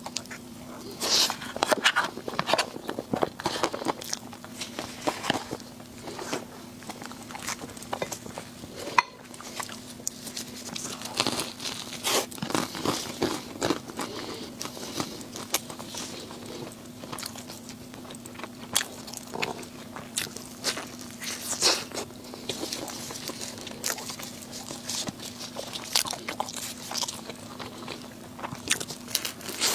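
Close-up eating sounds of a mukbang: repeated crunchy bites and chewing of crisp food, in irregular bursts throughout, over a faint steady hum.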